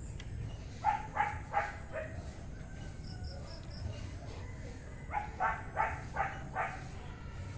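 A dog barking in two short runs: four barks about a second in, then five more about five seconds in.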